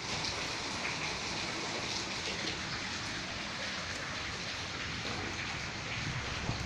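Hailstorm: hail and rain falling steadily, a dense hiss with scattered sharp ticks of hailstones striking surfaces, and one louder knock near the end.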